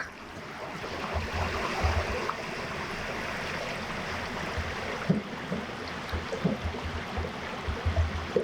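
Steady rushing of flowing river water, with irregular low thumps underneath.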